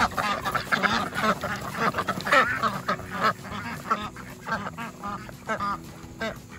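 A flock of Silver Appleyard ducks quacking as they come out of their pen, many calls overlapping at first, then thinning to scattered, softer quacks in the second half.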